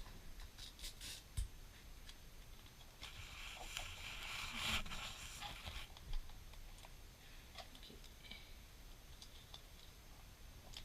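Faint handling sounds as paper and Scotch tape are worked onto an RC car's motor: scattered light clicks and a brief rasp about four seconds in.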